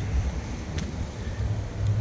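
Low, steady vehicle rumble.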